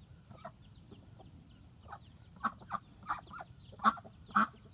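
Chickens clucking: a scatter of short calls, sparse at first and more frequent and louder in the second half.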